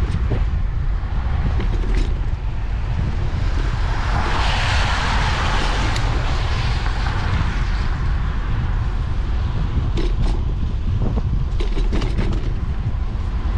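Ride noise from a bicycle on wet streets: a constant low rumble of wind and road under a steady hiss, with a louder hiss swelling and fading about four to seven seconds in. A few sharp clicks and rattles come near the end.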